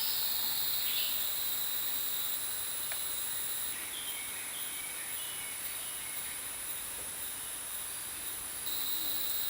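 Steady chorus of rainforest insects, a continuous high-pitched buzzing at several pitches at once, with no engine or voices under it.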